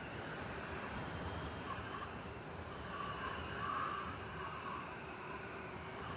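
City blizzard ambience: a steady rushing noise of wind-driven snowstorm, swelling slightly a little past the middle.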